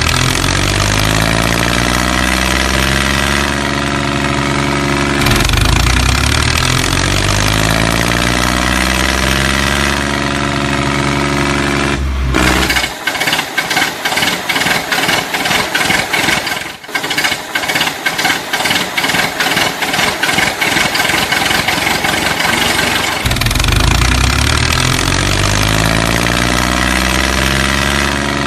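Tractor engine sound, its pitch rising again and again as though revving up. Partway through it gives way for about ten seconds to a fast, even chugging, then the rising revs return.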